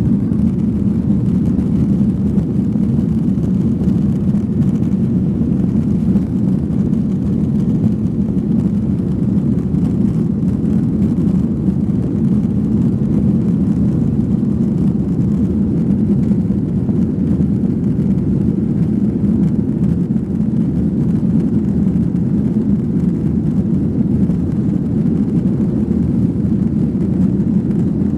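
Steady drone inside an airliner cabin, heard from a passenger seat, unchanging in pitch and level throughout.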